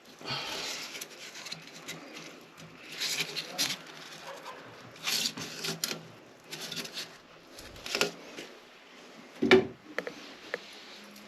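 Intermittent handling noises during work on a toilet: several short rustling or scraping bursts and a few sharp knocks, the loudest knock near the end.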